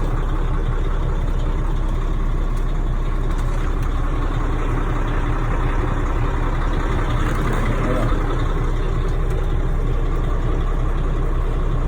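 Semi truck's diesel engine idling steadily, sounding healthy.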